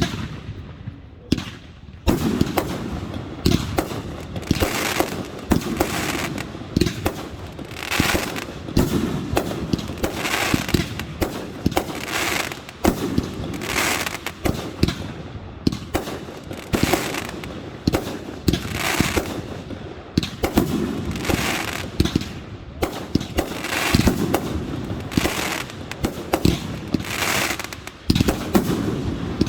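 Fireworks display in full barrage: a steady run of sharp bangs one after another, with repeated crackling bursts every second or two.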